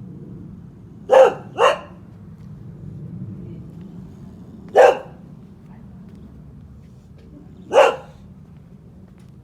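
Boxer dog barking four times: a quick double bark about a second in, then single barks a few seconds apart.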